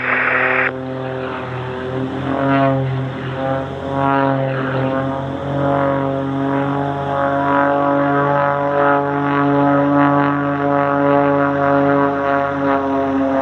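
A propeller aircraft's engine droning steadily, its pitch wavering slightly.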